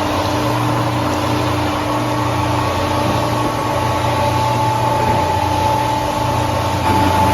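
Milling machine running with its spindle and cutter turning: a steady mechanical hum and whine with a low drone underneath.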